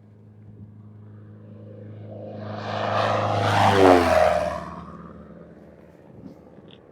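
Aircraft making a low pass over the runway without touching down: its engine tones grow louder to a peak a little under four seconds in, then drop in pitch as it goes by and fade away.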